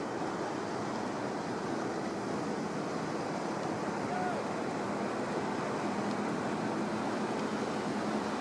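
Steady running noise of a riverboat under way: its motor and the water rushing along the hull, with wind on the microphone. A brief faint chirp about four seconds in.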